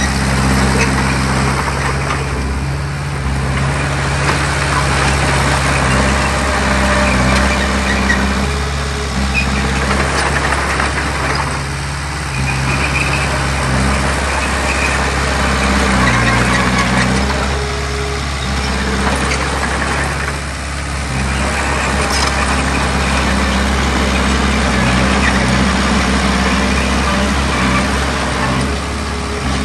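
Heavy diesel earthmoving machinery working, the engine note shifting as it takes and sheds load every few seconds, with a rough grinding noise over it that swells and fades.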